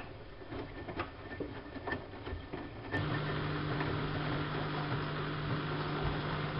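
Siemens Siwamat washing machine mid-cycle: a few light clicks, then about three seconds in a motor or pump switches on abruptly with a steady low hum.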